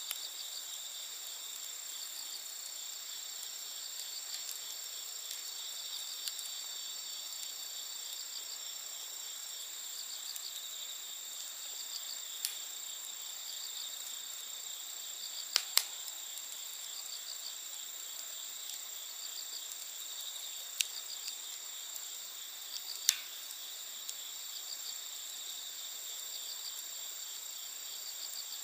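Night insects chirping and trilling steadily in several high-pitched layers, with a few sharp pops from a crackling wood campfire, the loudest a pair about halfway through and another near the two-thirds mark.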